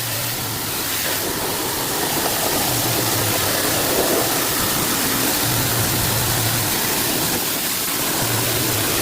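Steady spray of water washing out dismantled air-conditioner parts, such as the blower fan, to clear dust and mould buildup; a loud, even hiss.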